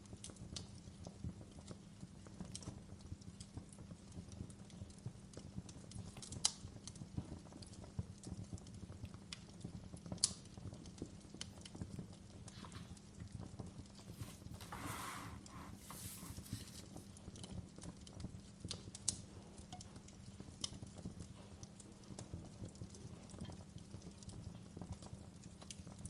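Fireplace fire crackling: irregular sharp pops and snaps over a low steady rumble, with a brief rustling hiss about halfway through.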